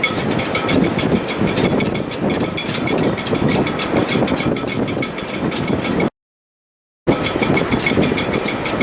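Wind in a sailboat's shrouds and rigging in heavy weather: a steady, loud rushing with a fast, even ticking over it. The sound cuts out completely for about a second a little past two-thirds of the way through.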